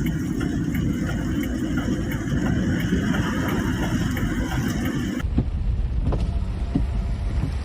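Heavy rain pouring down, a steady hiss scattered with the ticks of drops. About five seconds in it changes abruptly to a deeper rumble of wind on the microphone, with the rain still ticking.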